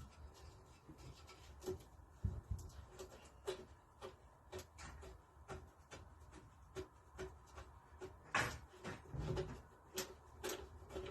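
Light metallic clicks and taps of a spanner and bolts being worked on the Lister D engine's fuel-tank fittings, with a few louder knocks near the end.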